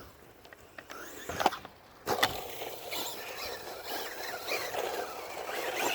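Traxxas Rustler VXL RC truck: a couple of knocks and a clatter in the first second and a half, then from about two seconds in it runs continuously over the ground with a faint, wavering whine from its brushless motor.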